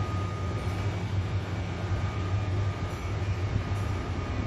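Electric-locomotive-hauled passenger train running slowly past along the platform: a steady low rumble with a faint, steady high whine.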